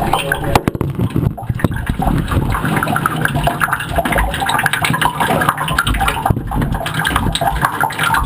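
Running, splashing water, like a tub being filled.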